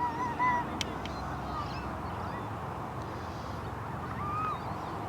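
Birds calling outdoors: a few short, wavering calls over a steady low rumble, with a couple of sharp clicks.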